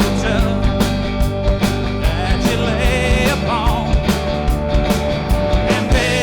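Live rock band playing a song, with drums keeping a steady beat under bass, guitar and a wavering melody line.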